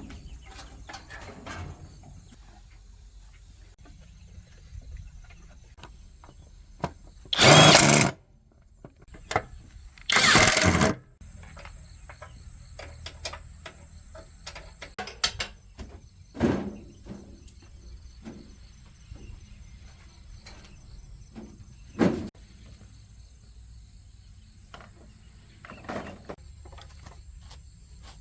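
Workshop work sounds: scattered clicks and knocks of tools on metal, broken by two loud hissing bursts about a second long, around eight and eleven seconds in.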